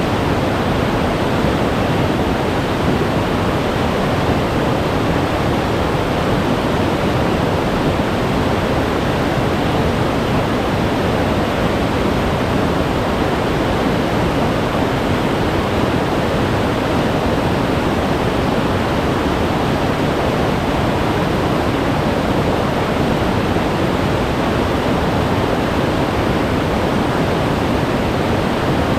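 Glacier-fed mountain stream rushing, a loud, steady wash of water noise with no break or change.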